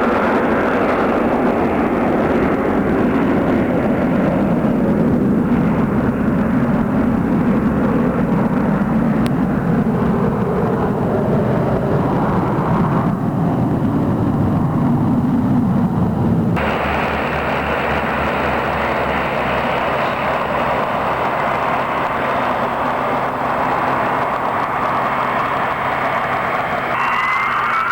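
Boeing 737 jet airliner on its takeoff run, a loud engine noise that falls steadily in pitch as the jet passes. About two-thirds of the way through it cuts abruptly to a steadier, hissier aircraft engine noise, with a thin rising whine near the end.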